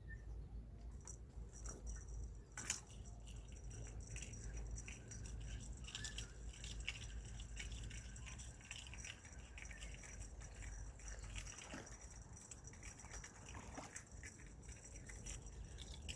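Faint outdoor night ambience: a steady high chirring of insects, with scattered small clicks and a low rumble underneath, and one sharper click a little over two seconds in.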